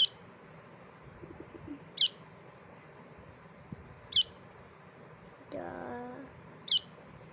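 Baby bulbul chirping: four short, sharp, high calls about two seconds apart. A person's voice is heard briefly near six seconds in.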